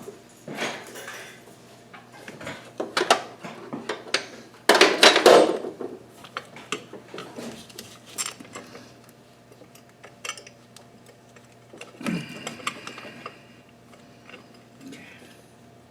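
Metal hand tools and engine hardware clinking and rattling while bolts and brackets are worked on in an engine bay, with a longer loud clatter about five seconds in and a ringing metallic clink near the end.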